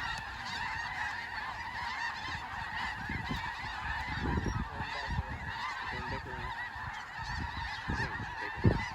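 A huge flock of snow geese calling nonstop, a dense wall of overlapping high-pitched honks, with a low rumble underneath and a single short thump near the end.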